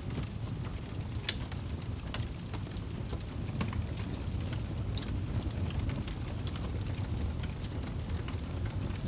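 Crackling fire with irregular sharp pops and snaps, over a steady low rumble of rain.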